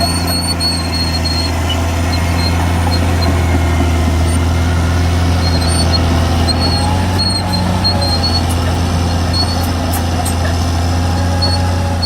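Caterpillar D6R XL bulldozer's diesel engine running steadily at working revs, with short high squeaks now and then.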